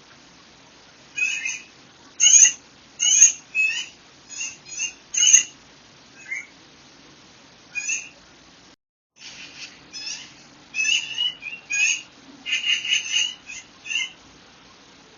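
Songbirds chirping: short, sharp calls coming in irregular runs, sparse at first and thicker in the second half. The sound drops out completely for a moment just under nine seconds in.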